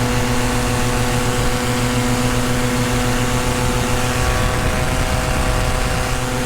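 Tandem paramotor's engine and propeller running steadily in flight, holding one even pitch.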